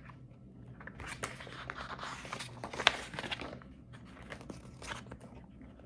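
Paper pages rustling and crinkling as a picture-book page is handled and turned, with a few small clicks.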